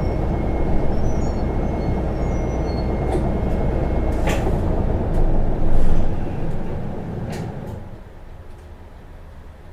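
Isuzu Erga (PKG-LV234N2) city bus's diesel engine and drivetrain running under way, then a few sharp air hisses from the air brakes about four to seven seconds in as the bus pulls up. Near the end the engine noise drops away to a much quieter rumble with the bus at a stop.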